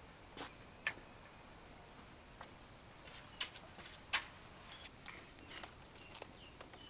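A steady high-pitched chorus of insects, with a handful of short sharp clicks and taps scattered through it.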